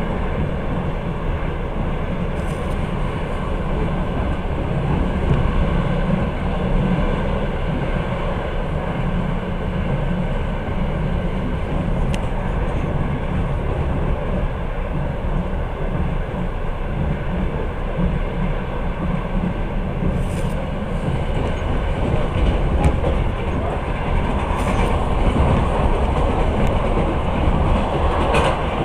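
Passenger train carriage running steadily along the rails, heard from inside the carriage: a continuous low rumble with a few faint sharp clicks.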